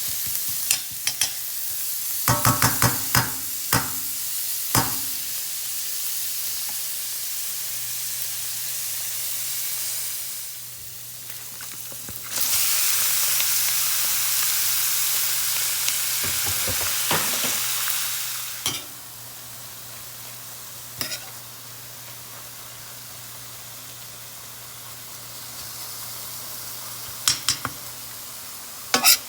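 Food sizzling in a frying pan while being stirred, with a utensil clicking and scraping against the pan several times in the first few seconds and again near the end. The sizzle grows much louder for about six seconds past the middle, then settles back.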